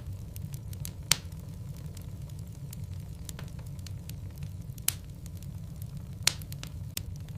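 Logs burning in a fireplace: a steady low rumble under sharp crackles and pops. Three pops stand out as loud, about a second in, near five seconds and just past six seconds.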